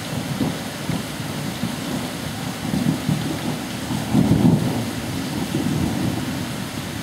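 Heavy rain falling in a steady hiss, with an uneven low rumbling under it that swells about three seconds in and most strongly about four seconds in.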